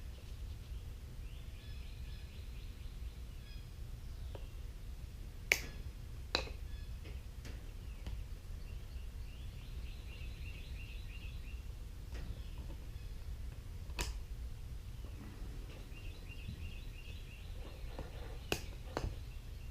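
Five sharp clicks and taps from hand work on a Briggs and Stratton electric starter motor as its armature is worked in past the brushes. Under them are a low steady rumble and faint bird chirping at times.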